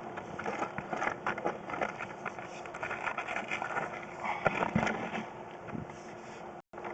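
Irregular scraping and clicking of a sewer inspection camera's push cable being fed down a plumbing vent pipe.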